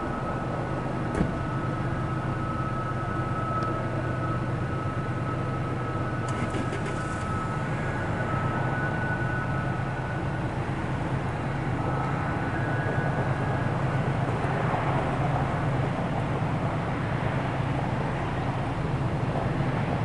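Diesel locomotives of an approaching BNSF freight train, a steady low drone that grows a little louder in the second half, with a faint high whine over it in the first half.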